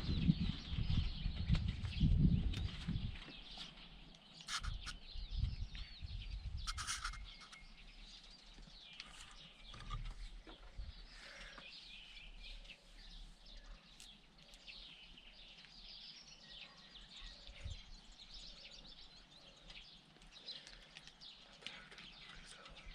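Small birds chirping and twittering, with low rumbling thuds in the first few seconds.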